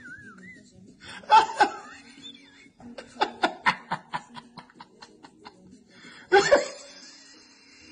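A person laughing. There is a loud burst a little over a second in, then a quick run of short laugh pulses, then another loud burst near the end.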